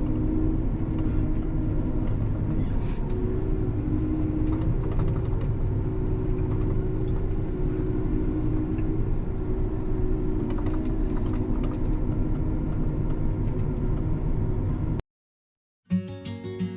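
Vehicle engine running steadily, with light rattles, cutting off suddenly near the end. Acoustic guitar music starts a moment later.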